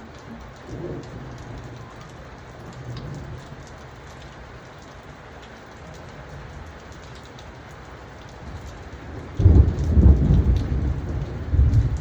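Steady rain falling, with thunder: a loud, low rolling rumble breaks in about three-quarters of the way through and swells again near the end.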